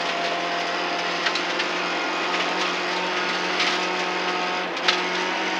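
Rally car engine running at steady revs, heard from inside the cabin, with road noise and a few light knocks from the car body.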